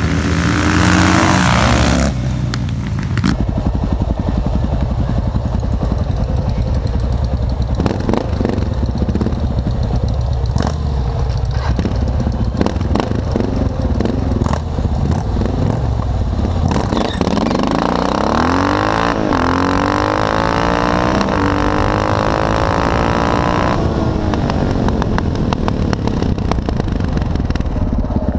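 Motorcycle engines at a drag strip. A bike revs hard for the first two seconds and cuts off sharply, under a steady low engine rumble with scattered clicks. From about 17 to 24 seconds a motorcycle accelerates hard, its engine note climbing in several steps before dropping away.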